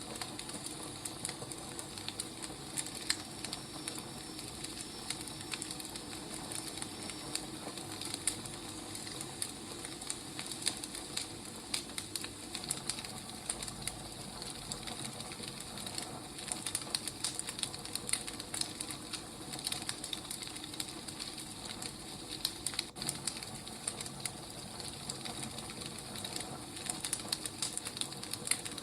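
Firewood burning: a continuous run of small, irregular crackles and pops over a steady low rush of the fire.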